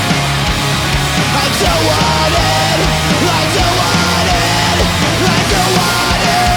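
Punk rock song played by a full band, loud and dense, with a pounding low beat and a held melodic line that wanders up and down on top.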